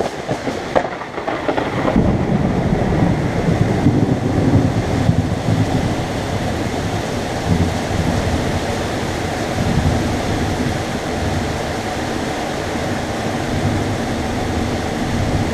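Thunder from a nearby lightning strike: a sharp crackle within the first second, then a deep rumble that swells about two seconds in and rolls on. A steady hiss of heavy rain lies beneath it.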